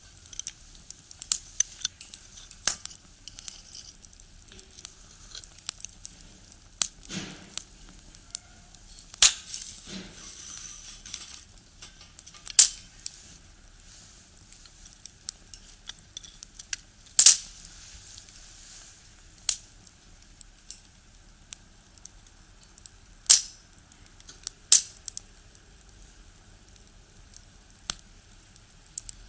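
Wood fire in a small box stove, crackling with irregular sharp pops over a faint hiss, about half a dozen of them much louder than the rest.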